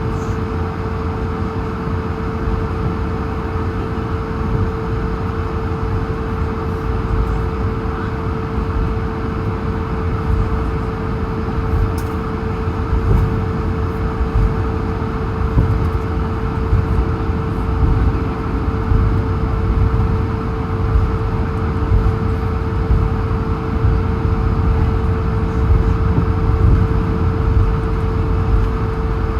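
Cabin noise inside an Airbus A220-100 as it taxis, its Pratt & Whitney PW1500G geared turbofans near idle: a steady hum with one constant mid-pitched tone over a low rumble.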